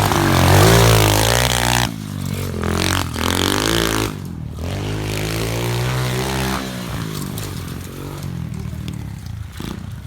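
SSR 125 pit bike's single-cylinder four-stroke engine revving hard under load on a hill climb. The throttle drops off about two seconds in and again around four seconds, rises between, and the engine goes quieter after about six and a half seconds.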